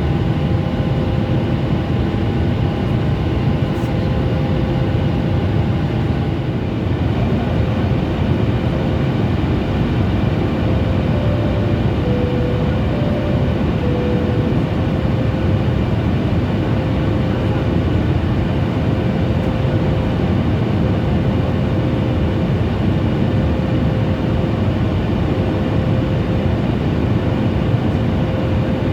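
Steady cabin noise of a Boeing 737 MAX 8 in flight: the even rush of airflow and jet engines. A faint steady whine runs over it and shifts pitch a few times near the middle.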